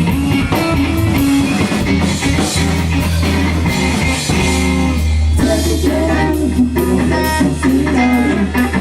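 Live rock band playing: electric guitar, bass and drum kit, with singing at times.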